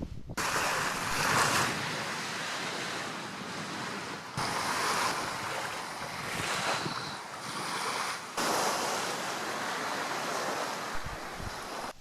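Sea surf washing in a steady hiss, with wind buffeting the microphone. The sound changes abruptly about four and eight seconds in.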